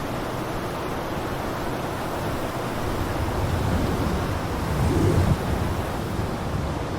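Blizzard wind blowing steadily as a deep rushing hiss, swelling into a stronger gust about five seconds in before easing.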